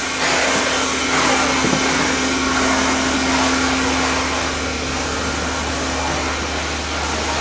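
Steady rushing air noise from a blower, with a steady hum that fades out about six seconds in.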